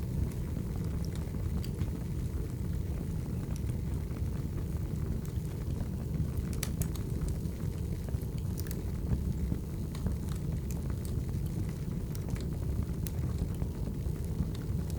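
Burning firewood: a steady low rumble with scattered sharp crackles and pops, a few louder ones about halfway through.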